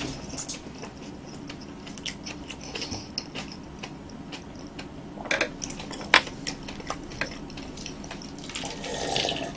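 Close-miked chewing of soft roasted sweet potato: wet mouth sounds with many small clicks. Near the end comes a drink of iced americano from a glass.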